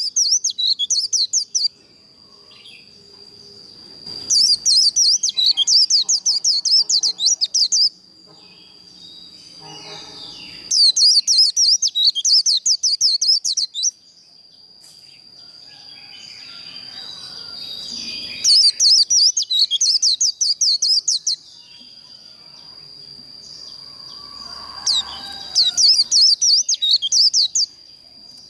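White-eye (vành khuyên) singing its fast warbling 'líu' song in five bursts of about three seconds each, with short pauses between. A thin, steady high tone runs underneath throughout.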